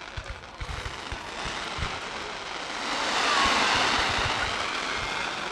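Fireworks display: low booms throughout, with a dense crackling that swells to its loudest about three seconds in.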